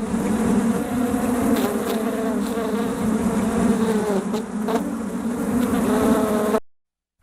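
Flying insect buzzing steadily with a low, wavering drone, cutting off abruptly about six and a half seconds in.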